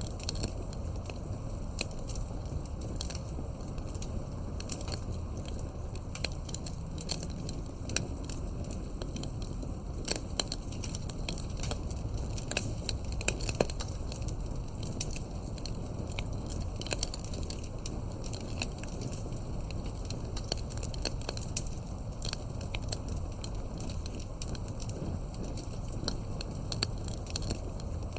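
Campfire burning, wood crackling and popping in quick, irregular snaps over a steady low rush of the flames.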